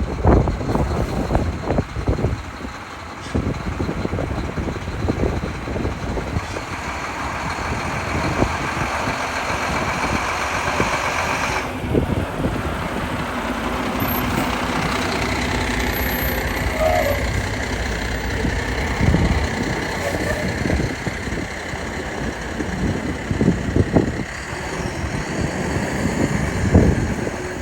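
Heavy truck engine running, with city street traffic around it: a tow truck hauling a fire department ladder truck.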